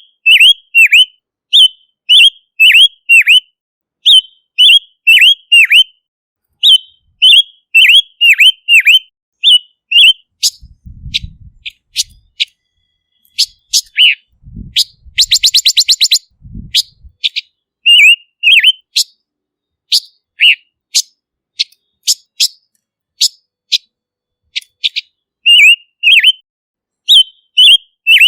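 Silver-eared mesia calling: a steady series of short whistled notes that slur downward, mostly in pairs and threes. Near the middle they give way to fast trills of clicking notes.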